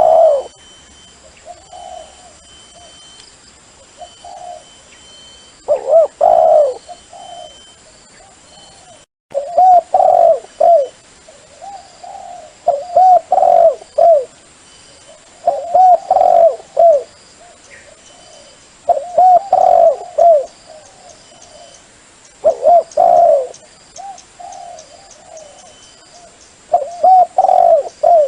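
A dove cooing in repeated phrases of several quick, low coos, a phrase every two to three seconds.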